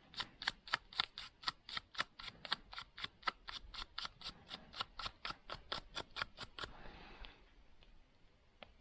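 A saw's teeth being worked with a metal hand tool: quick, evenly spaced metallic strokes, about four a second, which stop after nearly seven seconds.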